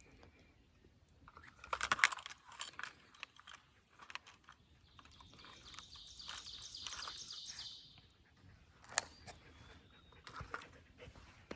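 Light jingling and clicking, like a dog's collar tags, in short spells. In the middle a high, rapidly pulsing trill runs for about three seconds.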